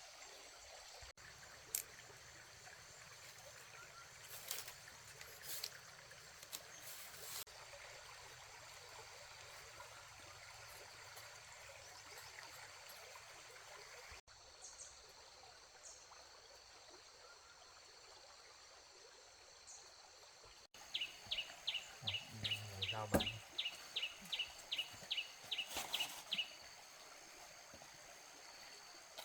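Running water, like a stream or trickle, heard faintly and steadily. Near the end comes a quick run of short high-pitched pulses, about three a second, for some five seconds.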